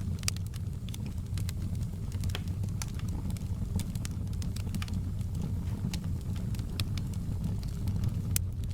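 Fireplace fire crackling: a steady low rumble of flame with irregular small pops and snaps throughout.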